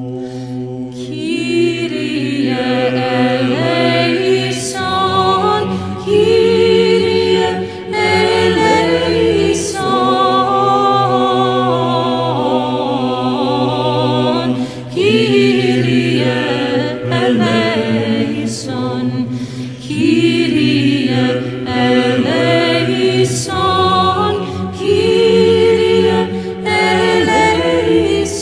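Orthodox church chant sung a cappella: a solo female voice winding through an ornamented melody over a choir holding steady low drone notes.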